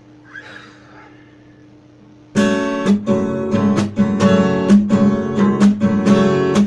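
Acoustic guitar strummed in a steady rhythm, starting after about two seconds of faint room hum: the introduction before the singing comes in.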